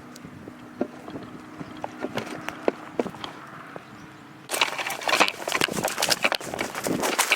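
Faint low steady hum with scattered light ticks; about four and a half seconds in, loud rapid crunching footsteps start, as of someone running through dry ground cover.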